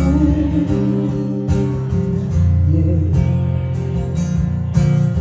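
Slow ballad accompaniment on guitar: chords strummed every second or two over sustained low notes, with no singing in this instrumental gap.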